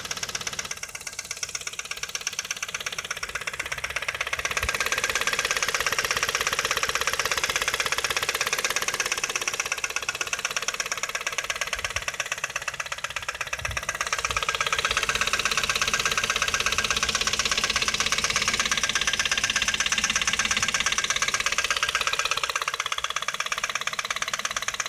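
Ford Focus II's 1.8-litre four-cylinder engine running with a rapid, even metallic knock. It grows louder twice, about four seconds in and again about fifteen seconds in.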